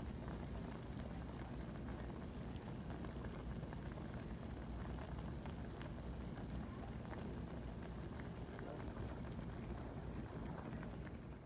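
Chicken adobo boiling in a covered pot: a steady bubbling sizzle with many small pops, dropping away at the very end.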